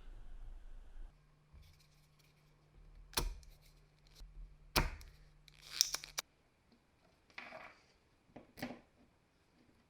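Drill parts being handled on a workbench: a few sharp clicks and knocks, a short cluster of clicks about six seconds in, then two brief scrapes.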